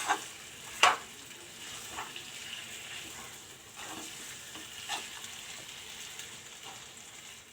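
Chicken pieces sizzling as they fry in masala in a kadhai while being stirred, with a steady hiss. The spoon knocks sharply against the pan a few times, loudest about a second in.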